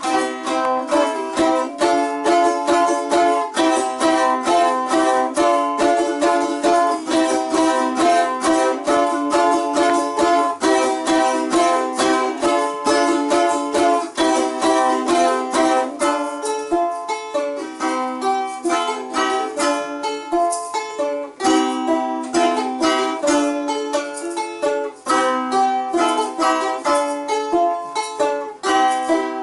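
Balalaikas strummed in fast, even strokes, playing a chordal folk tune.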